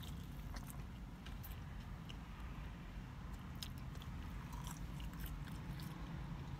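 Close-up chewing and small wet mouth clicks of someone eating french fries, over a steady low hum.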